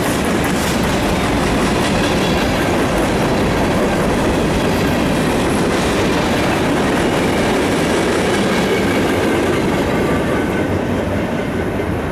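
Freight cars of a mixed freight train rolling past close by, a steady loud rumble and clatter of wheels on rail that eases slightly near the end.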